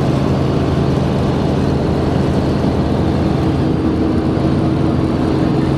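Helicopter engine and rotor running at a steady loud drone, with a constant low hum and no change in pitch.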